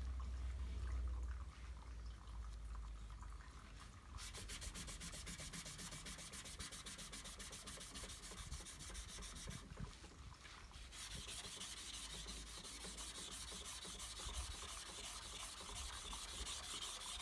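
Abrasive paper dry sanding body filler, a dry scraping rasp in quick, even strokes. It picks up about four seconds in and eases briefly near ten seconds before carrying on.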